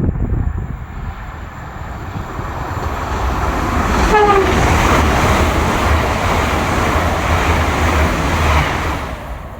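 A train passing, its noise swelling to a peak and dying away, with a brief horn blast about four seconds in.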